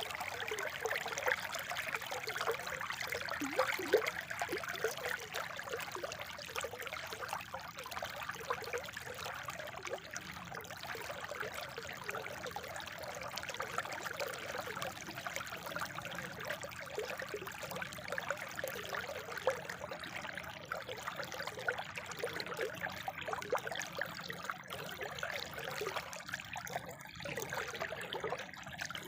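Spring water trickling and splashing steadily, a continuous babble of many small drops and ripples.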